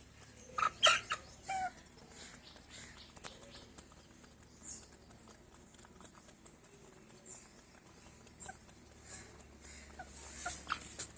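Aseel chickens giving a few short clucking calls about a second in and again near the end, with faint scattered taps between.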